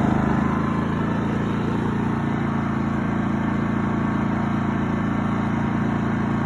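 Champion 4650 inverter generator's engine running steadily with no load, with eco mode switched off. The pitch of its hum shifts right at the start and then holds even.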